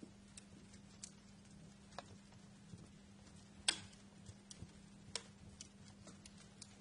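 Quiet wood fire crackling: scattered sharp pops and snaps, about one a second, with one louder pop a little past halfway, over a faint steady low hum and hiss.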